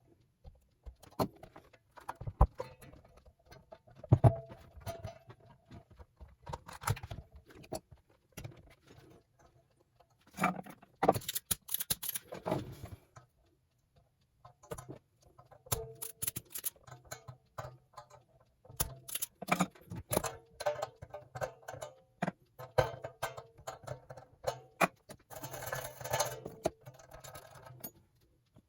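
Irregular clicks, taps and knocks of small parts and tools being handled during guitar assembly, with faint ringing tones in places.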